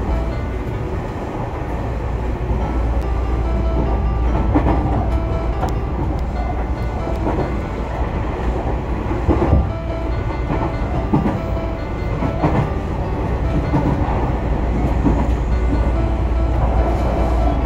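Running sound inside a Tobu Urban Park Line (Noda Line) commuter train car in motion: a steady rumble from the wheels and rails, with a few clacks over rail joints.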